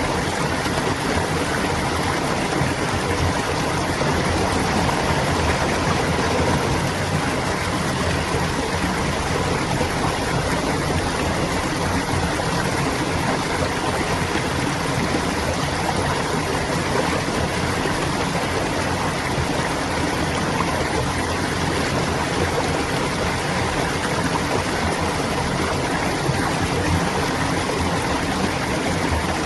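Clear stream of water flowing and babbling steadily.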